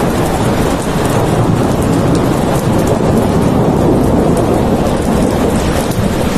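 Steady rain, a dense even hiss heaviest in the low range, with a fine patter of drops on top.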